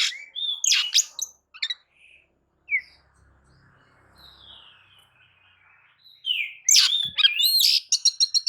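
Oriental magpie-robin (kacer) singing: varied high whistles and chirps, a pause of a few seconds with only faint notes, then a loud, fast run of notes that ends in a rapid trill near the end.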